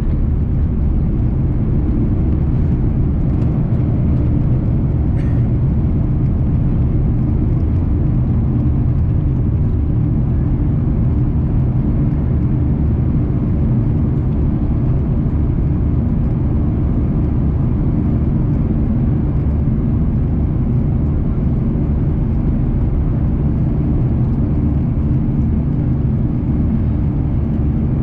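Cabin noise inside a Lufthansa Airbus A340-300 taking off: a loud, steady rumble of engines and airflow with a constant low hum.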